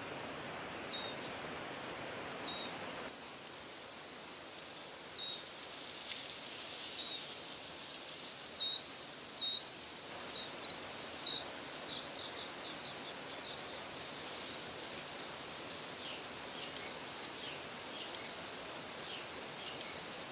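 Small birds calling with short, high chirps, including a quick run of rapid notes about halfway through, over a steady rushing background of natural outdoor noise. The lower rushing thins out about three seconds in.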